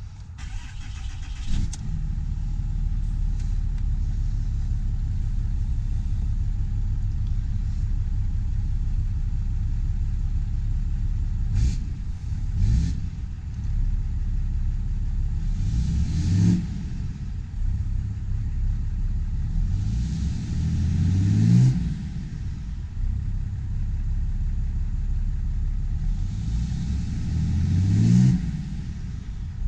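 2014 Ram 3500's Cummins 6.7-litre turbodiesel inline-six starting up through an aftermarket exhaust, settling into idle. It is revved with two quick blips, then three longer revs that rise in pitch and drop back to idle.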